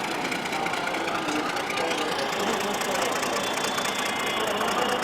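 EMD GT18LA-2 metre-gauge diesel locomotive's engine running steadily with a rhythmic mechanical clatter.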